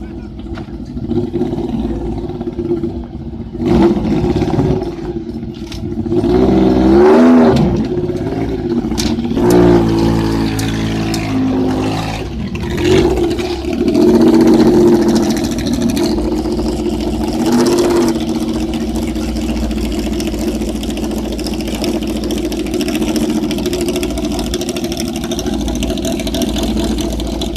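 Lancia Stratos rally car's Ferrari Dino V6 engine running, revved up and down several times in the first half with a stepped fall in pitch in the middle, then settling into a steady run for the last third.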